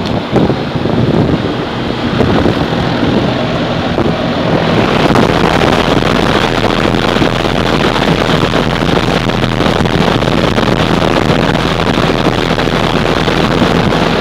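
American Standard heat pump's outdoor condensing unit running: a steady rushing of the fan discharge over a low compressor hum, growing fuller about five seconds in, with wind buffeting the microphone.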